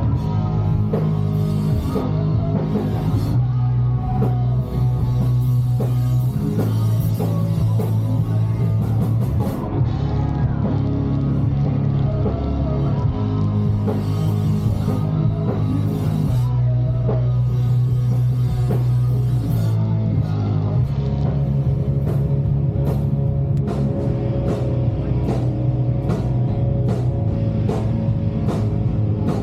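Live emo rock band playing loud: electric guitars, bass and a drum kit, with the drum hits becoming sharper and more regular in the last third.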